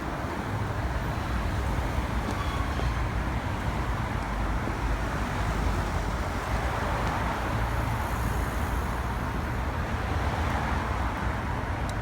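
Steady city road traffic noise, with a deep rumble underneath.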